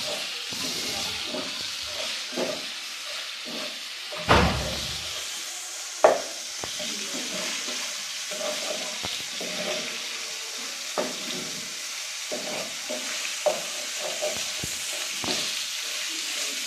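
Chicken pieces frying in a pan, sizzling steadily, with a spatula scraping and tapping against the pan as they are stirred. A louder thump comes about four seconds in and a sharp knock about two seconds after it.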